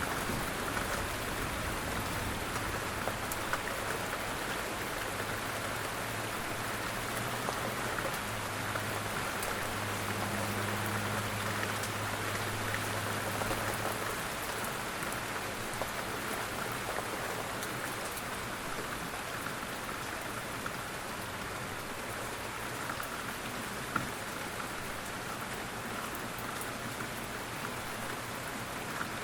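Steady rain falling on a surface, an even, continuous patter.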